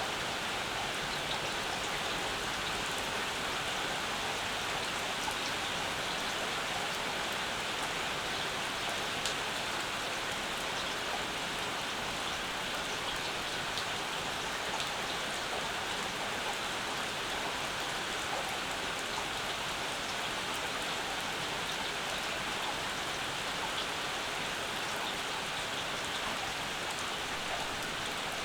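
Steady rainfall with individual drops pattering and ticking on surfaces.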